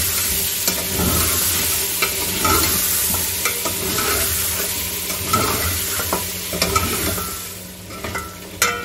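Mutton pieces with yogurt and ginger-garlic paste sizzling in hot oil in a metal pot, stirred and scraped with a metal spatula, with scattered scraping clicks. This is the bhuna stage, frying the masala until the oil separates. The sizzling dies down near the end.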